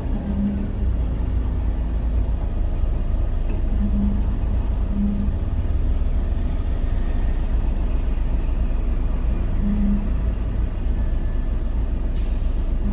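Heavy truck's diesel engine running with a steady low rumble, heard from inside the cab, with a few short hums rising above it.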